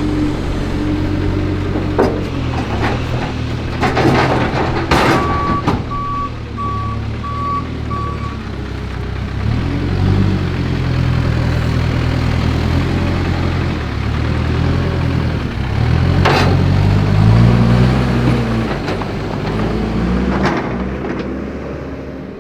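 Skid steer's diesel engine running and revving up and down, with a few loud knocks as chunks of broken concrete curb are dropped. A backup alarm beeps about five times starting around five seconds in.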